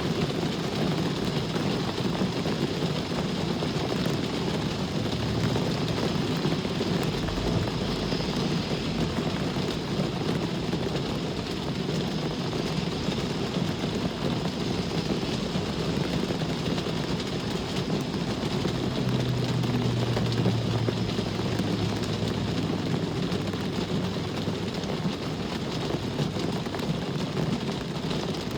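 Rain falling steadily over a continuous rumble of road traffic. About two-thirds of the way through, a low engine hum stands out for a few seconds.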